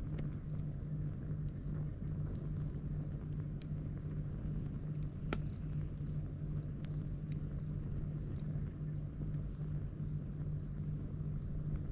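Campfire crackling: scattered sharp pops, one louder about five seconds in, over a steady low rumble.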